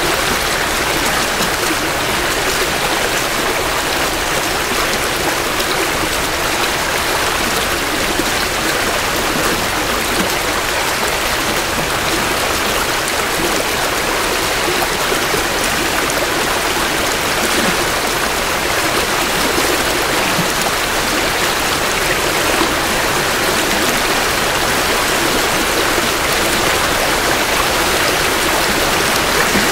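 A small creek in spring runoff, flowing and splashing close to the microphones: a steady, even rush of running water.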